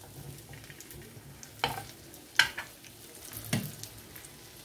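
Roat cookies sizzling as they shallow-fry in a pan, with a faint, steady crackle. Three short, sharp taps come through the middle of it.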